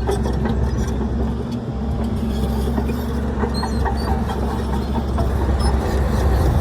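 Heavy diesel earthmoving machinery running steadily with a deep, constant drone, with scattered clicks and clanks over it.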